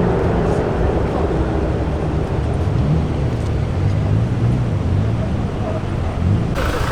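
Car engines running, their pitch rising and falling in the middle, with people's voices in the background.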